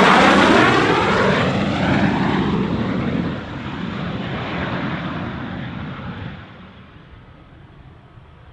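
Jet aircraft passing low overhead and flying away: its engine noise is loudest as it goes over, then fades steadily over about six seconds.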